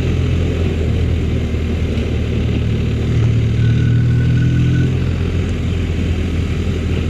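Motorcycle engine running at a steady cruising speed while riding, with wind rushing over the microphone.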